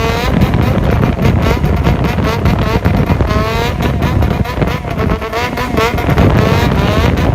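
Yamaha XJR400 inline-four motorcycle engine revved in a rhythmic throttle call, quick blips whose pitch sweeps up again and again, through an exhaust with its silencer fitted.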